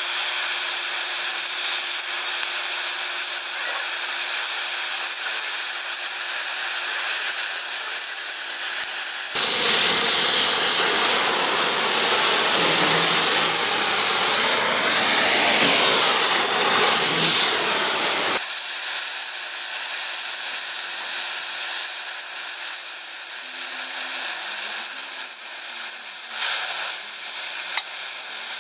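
Oxy-fuel gas cutting torch hissing steadily on steel. From about nine to eighteen seconds in, a louder, rougher hiss cuts in and stops abruptly.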